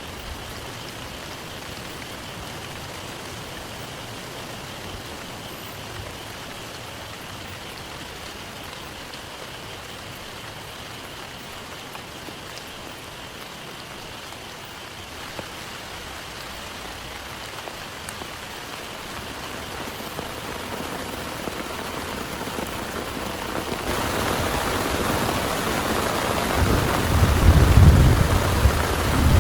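Steady heavy rain, growing louder about two-thirds of the way through, with a low rumble of thunder near the end.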